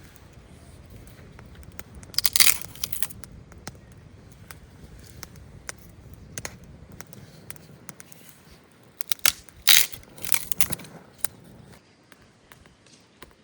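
Dry plant material being handled: crackly rustling and tearing in two bursts, about two seconds in and again from about nine to eleven seconds, with scattered small snaps in between.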